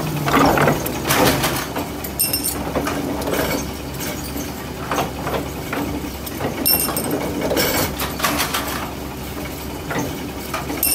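Forging shop machinery: a motor hums steadily under irregular metallic clanks and knocks, some of them ringing sharply, as metal is worked.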